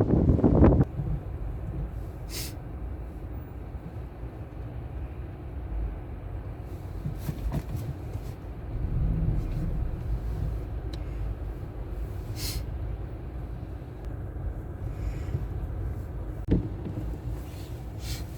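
Strong storm wind buffeting the microphone, dropping sharply about a second in to a quieter, steady low rumble with a few faint clicks.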